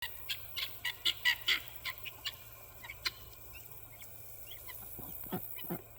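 Guinea fowl calling: a rapid run of short, high calls, loudest in the first two and a half seconds, then fainter ones, with two lower, falling calls near the end.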